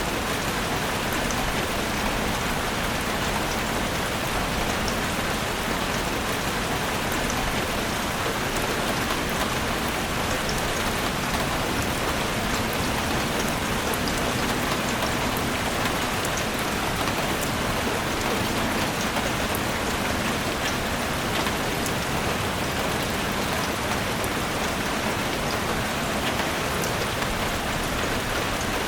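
Steady rain falling in a forest, an even hiss of drops with fine individual drop taps throughout.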